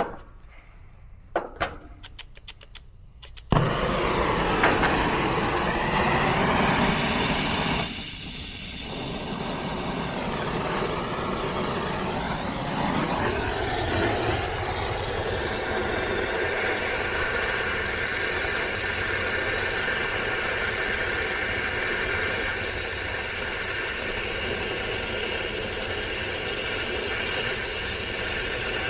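A few light clicks, then a brazing torch flares up suddenly about three and a half seconds in and burns with a steady rushing hiss as the joints missed on the heat pump's reversing valve are re-brazed.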